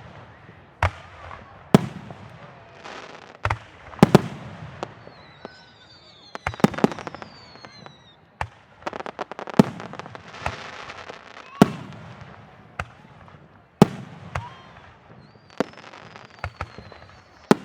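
Aerial fireworks show: shells bursting with sharp bangs every second or two, some followed by crackling. High gliding whistles can be heard twice along the way.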